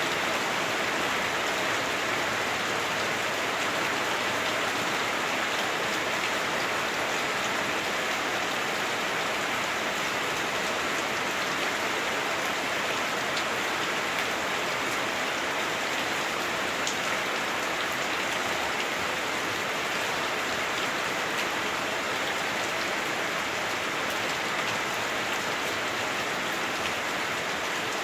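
Heavy rain drumming on a house roof, heard from inside the house: a steady, dense hiss of rain with scattered individual drop ticks, muffled by the roof.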